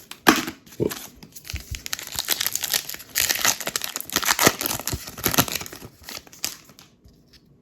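Plastic wrapper of a trading-card pack being torn open and crinkled by hand, crackling for about seven seconds before it stops near the end.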